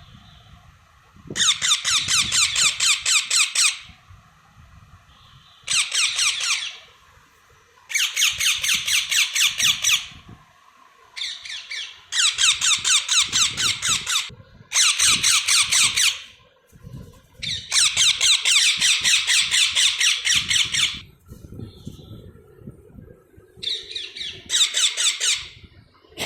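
Baby parrots chirping in about nine loud bouts of rapid pulsed calls, each one to three seconds long, with short pauses between.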